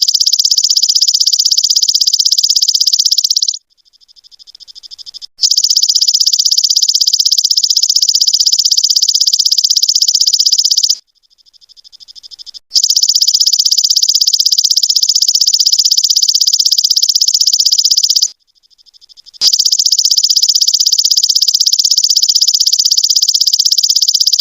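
High, fast-pulsed insect trill of the cricket kind, in loud bursts of about five to six seconds. Between the bursts come short, fainter pulsing passages that swell up before the next burst.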